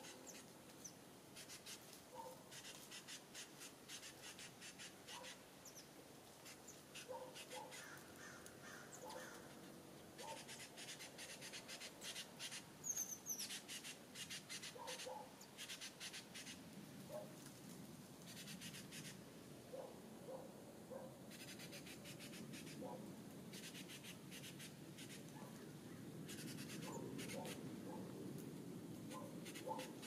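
Faint outdoor calls of wild birds: short repeated chirps, one high falling chirp about halfway, and bursts of rapid scratchy ticking. A low rumble builds up in the second half.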